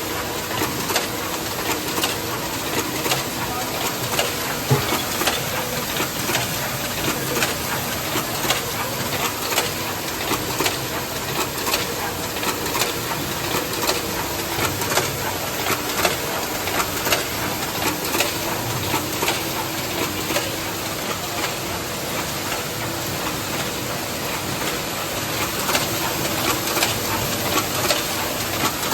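Automatic can body welding machine running in production, rated at 60 cans per minute: a continuous mechanical hiss with regular sharp clicks throughout.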